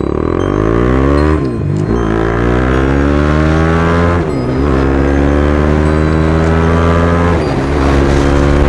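BMW G310R's single-cylinder engine through an Austin Racing aftermarket exhaust, accelerating through the gears. The engine note climbs, drops sharply at each of three upshifts and climbs again.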